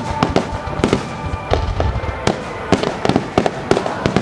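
Fireworks finale: aerial shells bursting in a rapid, dense string of bangs and crackles, several a second, with a heavier deep boom about a second and a half in.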